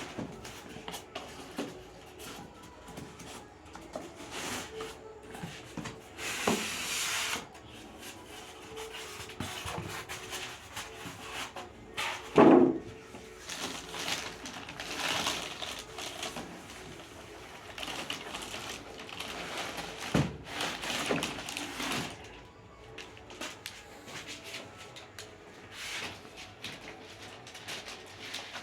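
Packaging being handled while a television is unboxed: scattered rustling and scraping of cardboard and plastic with occasional knocks, the loudest a hollow thump about twelve seconds in.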